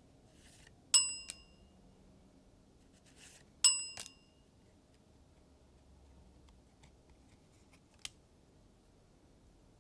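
Two bright metallic dings about two and a half seconds apart, each with a quick second tap just after and a short swish just before. A small click follows near the end.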